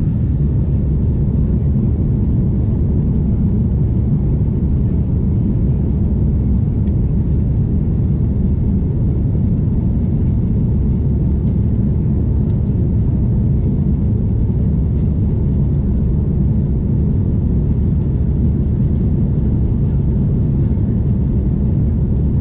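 Steady low rumble of a jet airliner heard from inside the passenger cabin: engine and airflow noise at an even level.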